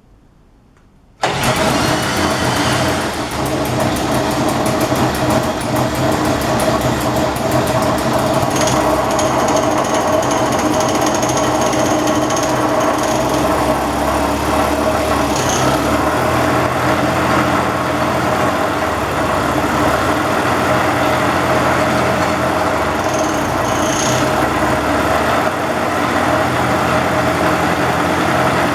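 Small 33.6 cc MX5 Superbike friction-drive motor running steadily on a bench. It comes in suddenly about a second in and holds an even note, after a rebuild of a motor that would not start.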